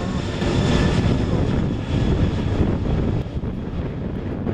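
Boeing 747's four turbofan engines at takeoff power: a loud, steady, deep rumble with a hiss on top. The hiss fades near the end.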